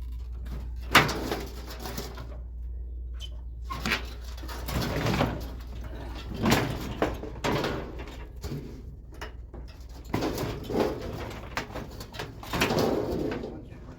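Sheet-metal and parts clattering, with irregular knocks and rattles, as a microwave oven's casing and internal parts are pulled apart by hand. A steady low hum runs underneath.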